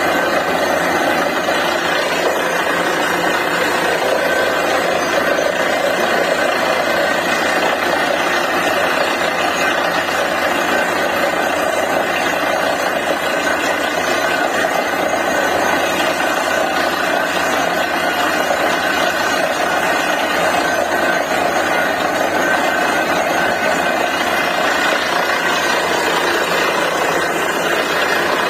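DTH borewell drilling rig running steadily, its engine and machinery a loud, unbroken mechanical noise that holds an even pitch.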